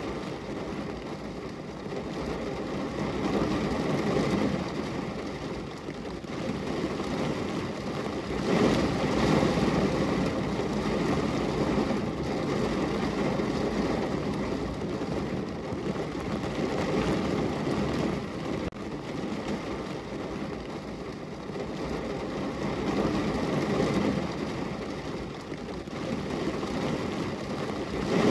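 Steady rain against a window, heard as an even, low rushing noise that swells and eases every few seconds.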